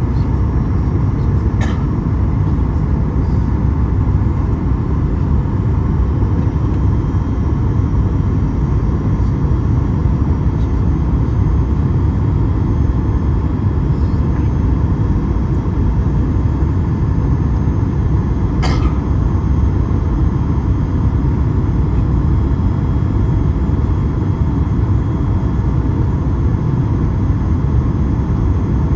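Steady low roar of engine and airflow noise inside the cabin of a Boeing 737 MAX 8 in flight, with two faint clicks, about two seconds in and again past the middle.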